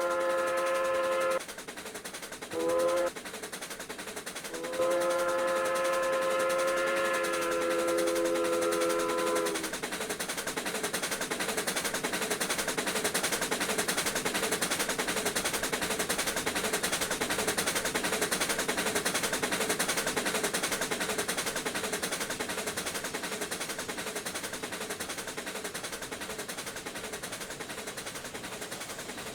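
Steam locomotive chime whistle blowing a long blast, a short one and a longer one, several notes sounding together. The steam train then runs on with a fast, even chuffing rhythm that slowly fades.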